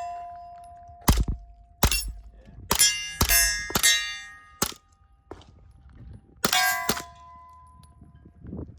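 A quick string of suppressed 9mm shots from a Silencer Co. Maxim 9 pistol, each hit ringing a steel target plate with a loud metallic clang that rings on briefly. After a pause of about two seconds, two more shots ring the steel.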